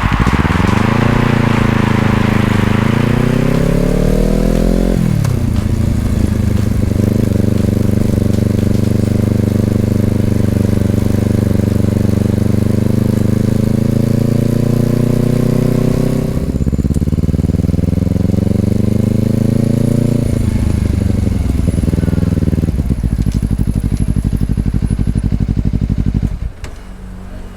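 A 2020 Honda CBR250RR's parallel-twin engine runs through an Over Racing aftermarket exhaust, its pitch rising as it accelerates and then dropping back. It holds a steady cruising note, pulls up in pitch once more, and eases off. Near the end it falls much quieter.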